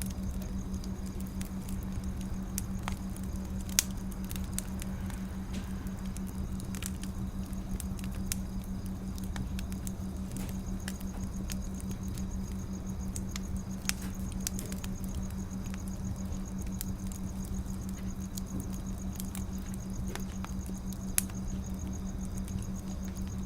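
Wood fire crackling: scattered sharp pops and snaps over a low steady rumble, with a steady low hum underneath. A few louder pops stand out, about four seconds in, past the middle and near the end.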